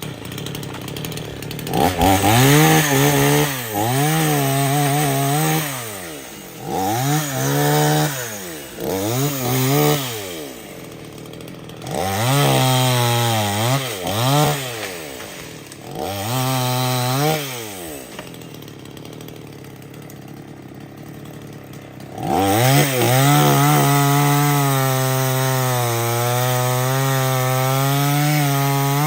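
Two-stroke chainsaw revved in a series of short bursts, falling back to idle between them, then held at full speed for the last third, its pitch sagging slightly as it bogs into a cut in wood.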